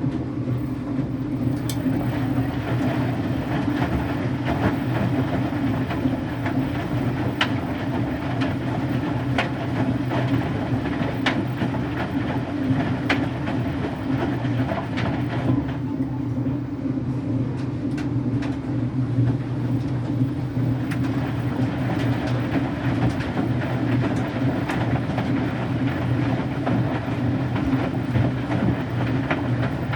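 Electrolux Wascator W355H front-loading washer tumbling laundry in rinse water: a steady motor hum with knocks about every two seconds. For a few seconds around the middle the knocks and the higher sound thin out before the tumbling picks up again.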